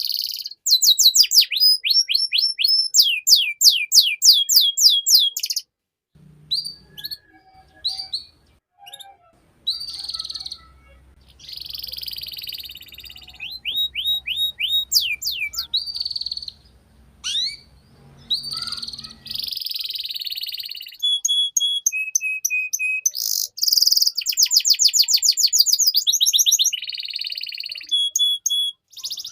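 Domestic canary singing a long, varied song: fast trills of rapidly repeated sweeping notes, buzzy rolling phrases and short held whistles, broken by brief pauses.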